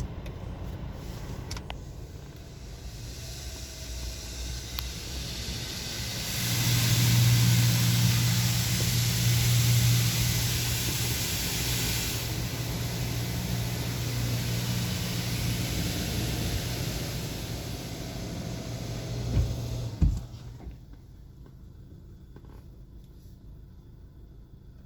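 Mark VII ChoiceWash XT rollover car wash machine running over a car, with a steady low hum and a loud hiss of water spray from about six seconds in. Two knocks come near the end, after which it turns much quieter.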